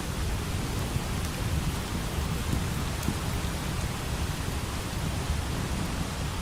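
Steady rain with a low, continuous rumble of distant thunder, and a few faint crackles from a wood fire.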